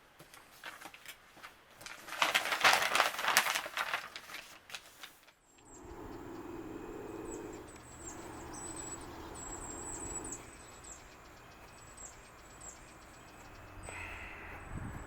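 Scratchy rustling and crackling, loudest a couple of seconds in, that stops abruptly. Then comes an outdoor background of birds chirping in short repeated calls over a low steady hum.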